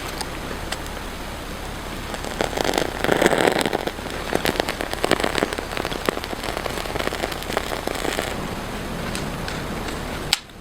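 Campfire cooking: a steady crackling sizzle full of small pops. It gets louder for about a second and a half a few seconds in.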